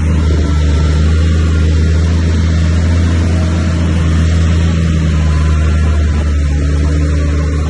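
Heavy diesel engine of earthmoving machinery running steadily under load, a loud, even low drone.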